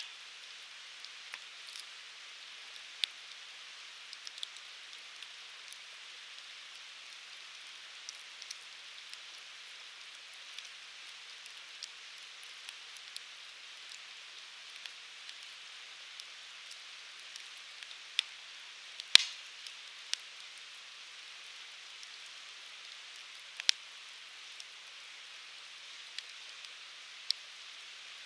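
Firewood burning in a fire-pit grill: a steady soft hiss with scattered crackles and sharp pops, one pop about two-thirds of the way through louder than the rest.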